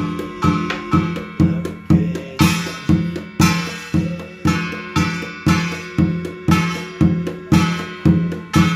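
Korean shamanic ritual music: a buk drum beaten in a steady beat of about two strokes a second, under a piri (double-reed pipe) holding reedy, buzzing notes. A bright clash comes about once a second.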